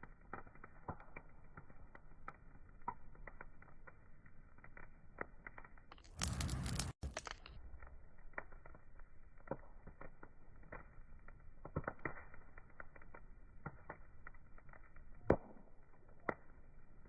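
Burning wood crackling: irregular small pops and snaps, with one sharper, louder pop near the end. About six seconds in, a louder rush of noise lasts a second or so and cuts off suddenly.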